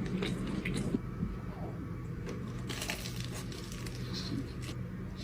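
Close-up eating sounds of a Korean corn dog: chewing with crisp crunches and wet, squishy mouth sounds, clustered in the first second and again about three seconds in, over a low steady hum.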